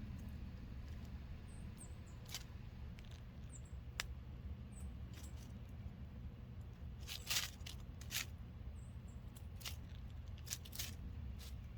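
Birds pecking at a log bird feeder: irregular sharp taps and clicks of beaks on seed and wood, bunched about seven seconds in, with a few faint high chirps, over a steady low rumble.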